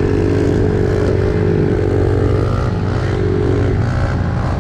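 Pit bike engine running at a steady speed while riding, with wind noise over it.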